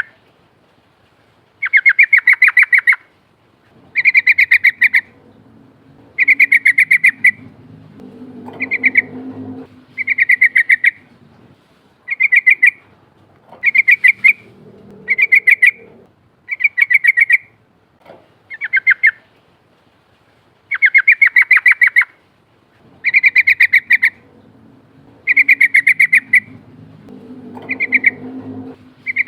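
Yellow-vented bulbul (trucukan) singing: a steady series of loud, rapidly trilled chirping phrases, each under a second or so long, repeated about every two seconds. A faint low rumble sits under the song twice, about eight seconds in and near the end.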